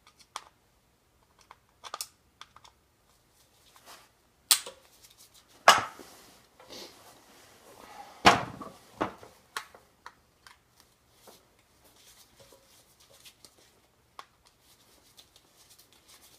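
Scattered clicks and knocks of tools and metal parts being handled while Allen screws are taken out of a two-stroke motorcycle silencer's end cap. The loudest, heavier knocks fall around the middle.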